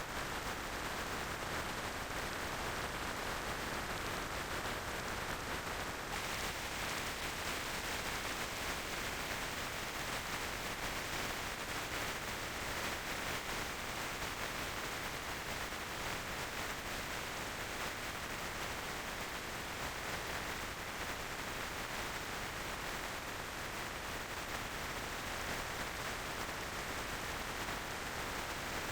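Steady rushing wind and road noise from a motorcycle on the move, even throughout, a little brighter from about six seconds in.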